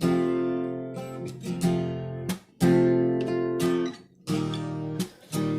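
Acoustic guitar strumming chords, with sharp strokes and brief stops where the strings are muted between chords.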